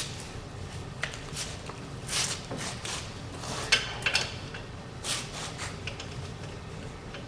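Scattered clinks and knocks of hand tools and metal parts being handled, with a couple of short scrapes, over a low steady hum.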